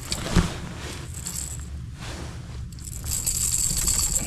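Metallic rattling and jingling of a crankbait and its treble hooks as a freshly landed smallmouth bass thrashes in the landing net, with a single knock about half a second in and the jingling louder over the last second or so.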